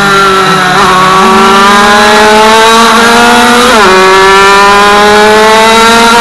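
Racing motorcycle engine at full throttle, heard onboard with wind rush: the revs climb, drop sharply about four seconds in at an upshift, then climb again.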